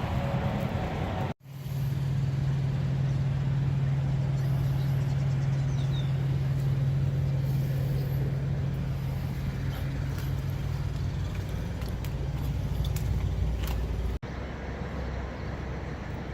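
Truck engine running with a steady low drone. The sound breaks off abruptly about a second in and again near the end.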